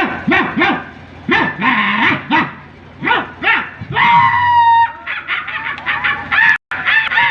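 A man imitating a street-dog fight with his voice: a run of short barks, a long drawn whine about four seconds in, then a quick string of high yelps.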